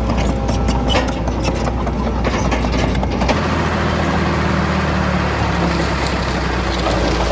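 Diesel engine of heavy earthmoving machinery running with rattling and clanking. About three seconds in, the sound changes abruptly to a steadier engine hum under an even hiss.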